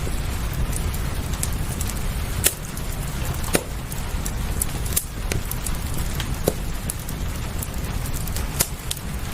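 Fireplace crackling, with a handful of sharp pops and small ticks at irregular intervals over a steady low rumble.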